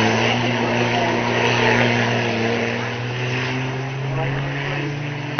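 Banger race car engines running hard, a steady drone that slowly fades as the cars move away around the track, with a sharp click at the very end.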